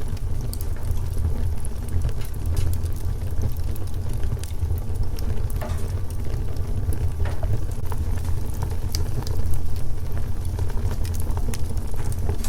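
Wood fire burning with a steady low rumble, crackling and popping at irregular intervals.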